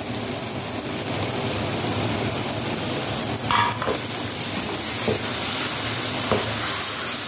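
Beetroot and meat masala sizzling in a steel pan as it is stirred with a metal utensil, with a few scrapes and taps of the utensil against the pan.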